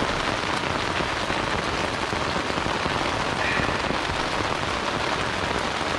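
Heavy rain bucketing down on a tent, heard from inside it: a steady, dense hiss of drops hitting the fabric.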